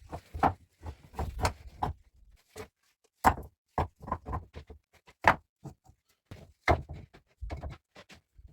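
Irregular series of knocks and thumps from hard objects being handled or struck, some dull and heavy, roughly a dozen over several seconds.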